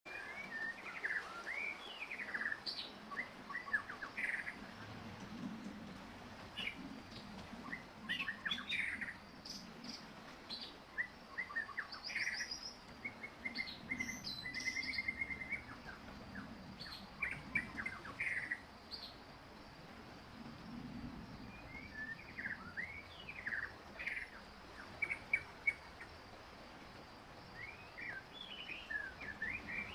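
Birds chirping and singing: many short, quick calls with a couple of rapid trills midway through, over a faint steady background hiss.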